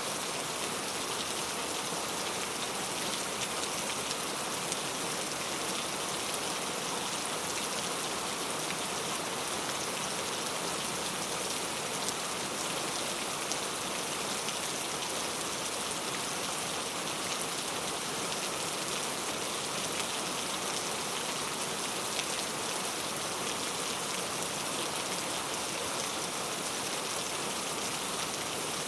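Heavy rain falling steadily on hard urban street surfaces: a dense, even hiss of pattering drops.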